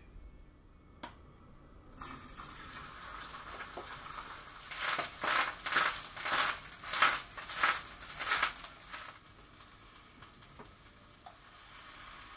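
Konnyaku cubes frying in sesame oil in a frying pan. A steady sizzle starts about two seconds in. The pan is then tossed about seven times in quick succession, each toss bringing a louder surge of sizzling.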